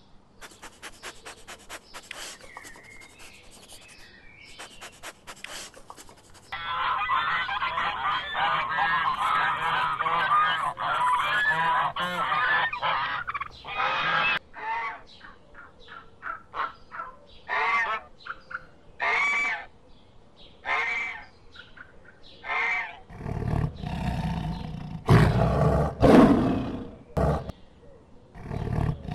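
A flock of farm fowl calling. It opens with a rapid run of faint clicks, then comes a dense chorus of overlapping calls, then separate calls roughly one a second, the last few louder and deeper.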